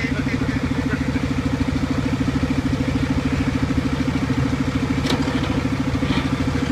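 Fiat-Allis loader engine being cranked over by its starter without catching, a slow, even chugging of about eight to nine compression pulses a second: the batteries are weak.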